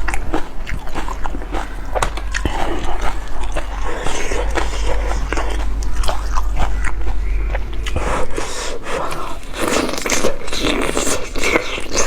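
A person eating close to the microphone, mukbang-style: biting and chewing food, with many short clicks throughout.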